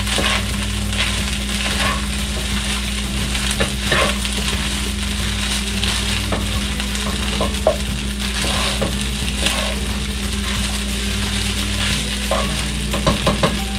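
Fried rice with chopped carrots sizzling in a nonstick pan as it is stirred and turned with a slotted spatula, with scattered scrapes and light clicks of the spatula against the pan over a steady low hum.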